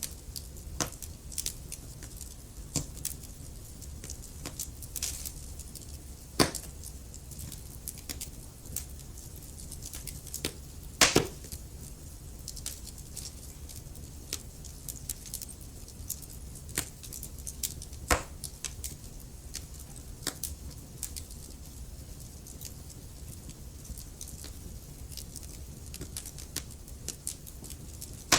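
Wood fire crackling: irregular small pops and snaps over a low steady rumble, with a few louder pops, the loudest a quick cluster about eleven seconds in.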